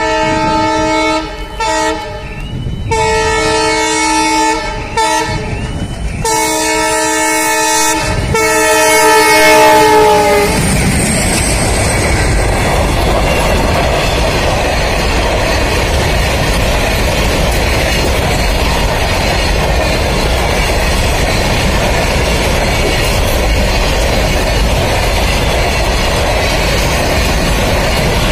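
Freight train's locomotive horn sounding in several blasts over the first ten seconds, the last held for about four seconds, as the train approaches. Then the train passes close: a steady, loud rumble of box wagons' wheels running over the rails.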